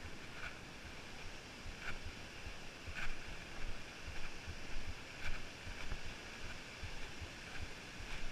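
Wind rumbling on a body-worn action camera's microphone, with crunching footsteps on a rocky trail every second or so.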